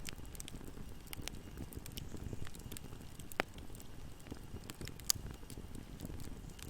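Fire burning in a fireplace: a steady low rumble of flames with scattered crackles and pops, two sharper pops about three and five seconds in.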